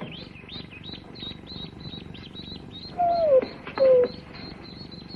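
Newly hatched ducklings peeping, a steady run of short, high, falling peeps about four a second. Two louder short falling cries come about three and four seconds in.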